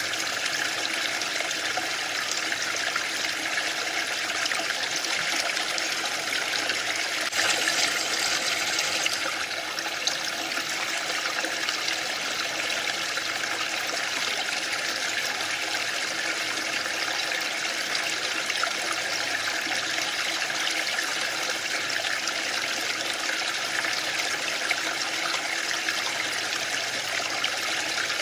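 Waterfall: a steady rush of falling water, briefly louder and brighter for a couple of seconds about seven seconds in.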